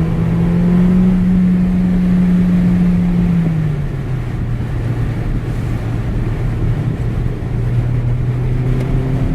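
2014 Mercedes CLA45 AMG's turbocharged 2.0-litre four-cylinder engine pulling while driving, heard from inside the car. The engine note climbs and holds, drops in pitch about four seconds in, then runs steady.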